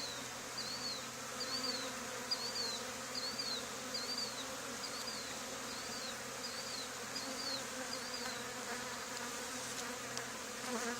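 Steady buzzing hum of a honey bee swarm. A short, high chirping note repeats about twice a second over it, stopping about three quarters of the way in.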